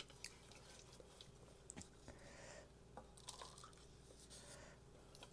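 Faint wet chewing of food, with small mouth clicks and smacks.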